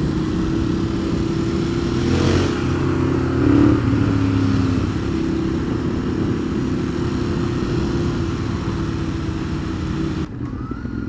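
Ducati Monster 821's two-cylinder engine running under way, heard from an onboard camera with rushing wind noise; the revs rise briefly about two to four seconds in. Near the end the wind noise cuts away suddenly and the engine sound drops.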